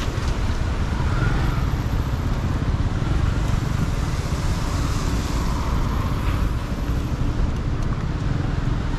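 City street traffic: a steady low rumble of passing cars and motorbikes, swelling slightly as vehicles go by.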